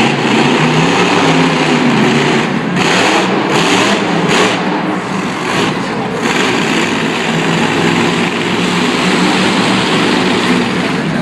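Monster truck engines running loudly and steadily, with a few short noisy surges about three to four seconds in.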